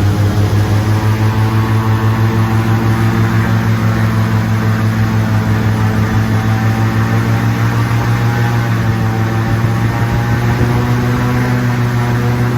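Airboat engine and propeller running steadily at speed, a loud, even drone with a fast throb.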